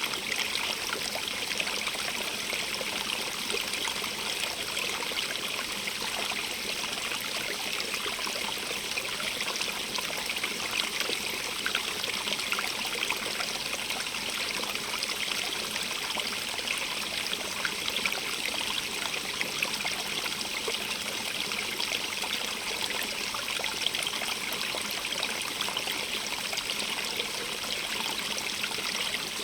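A stream running over rocks, a steady splashing and trickling rush with no change in level.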